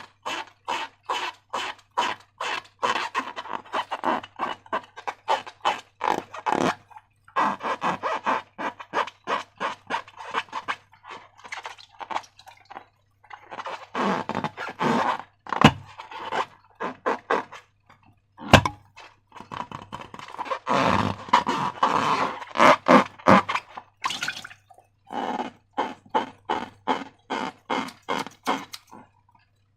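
Slime being squished and worked by hand, a rapid run of wet, sticky clicks and pops several times a second, in bursts with short pauses, and two sharper snaps in the middle.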